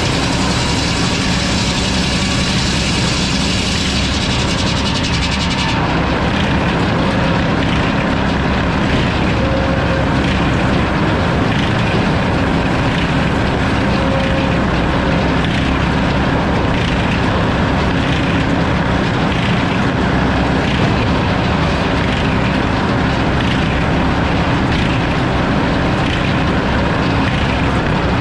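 A sawmill running loud and steady while sawing a log. About six seconds in, a high hiss drops away and the sound changes character.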